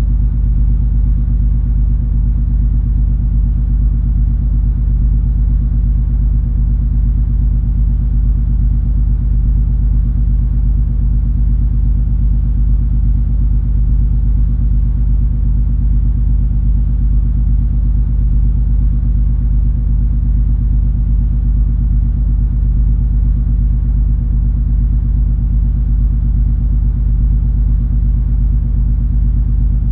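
Steady, loud low rumble and engine hum of the cruise ferry MS Color Magic under way, heard aboard, with a few steady humming tones over a deep drone.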